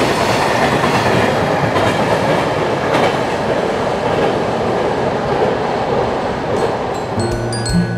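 Freight train of container wagons running past at speed: a steady rush of wheel and rail noise with faint clatter over the rail joints, easing slightly toward the end. A short mallet-percussion jingle starts near the end.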